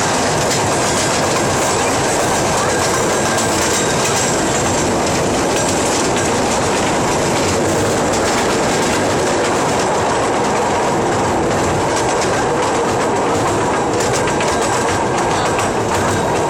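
Train running on rails: a steady, loud rumble with wheels clicking over rail joints and a faint, thin squeal from the wheels.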